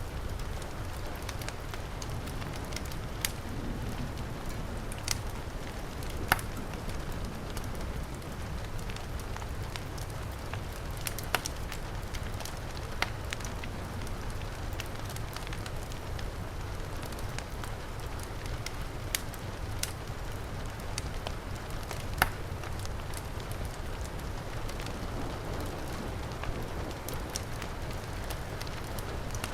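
Wood fire crackling, with sharp pops at irregular intervals over a steady rush of heavy rain.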